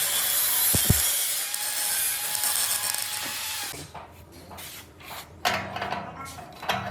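A power tool grinding or cutting with a steady hiss that stops about four seconds in, followed by scraping and a few sharp knocks as the workpiece is handled.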